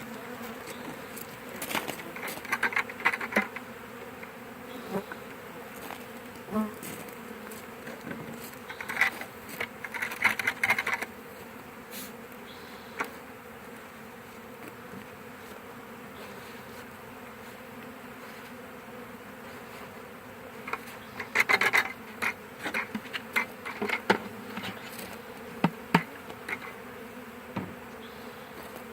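A swarm of honey bees buzzing in a steady hum. Clusters of sharp clicks and taps break in several times, loudest a few seconds in, around ten seconds in, and again past twenty seconds.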